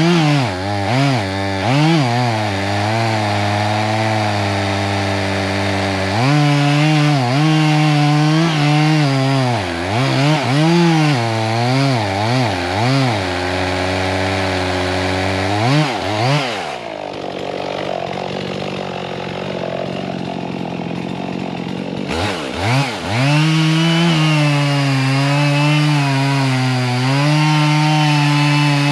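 Chainsaw cutting into a dead oak, its engine revving up and down again and again. It drops back for several seconds past the middle, then comes back up and holds steady at high revs under load near the end.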